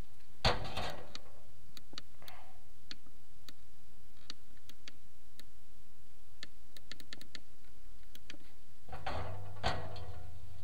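Chimney inspection camera and its cable knocking and scraping against the clay flue tile as they are lowered down the flue. A louder knock with a scrape comes about half a second in and another near the end, with scattered light clicks between.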